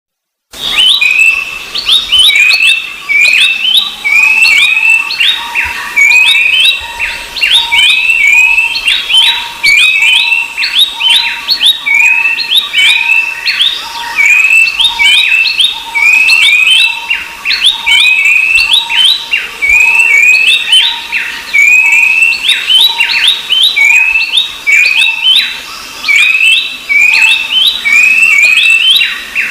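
Babblers (pelanduk semak and black-capped babbler) singing without pause: rapid, repeated whistled notes with quick sliding sweeps in pitch, phrase after phrase, with a faint steady tone underneath.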